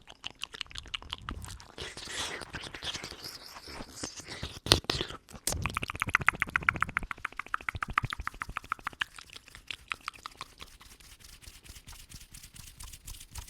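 Close-miked ASMR mouth sounds: wet clicks and lip smacks, with a breathy exhale about two seconds in. Near the middle come a couple of sharp, loud smacks, then a fast run of tongue clicks at about ten a second that slowly fades.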